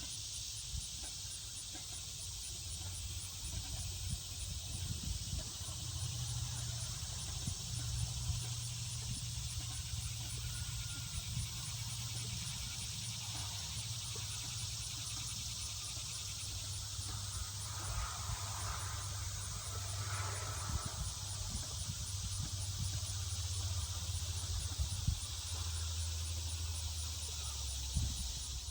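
Steady outdoor ambience: a high, even hiss over a low hum, with a few faint brief sounds about two-thirds of the way through.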